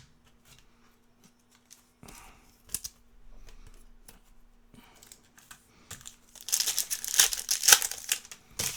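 Foil wrapper of a Topps Cosmic Chrome baseball card pack being torn open and crinkled: a few faint handling clicks, then a dense run of crackling from about six and a half seconds in.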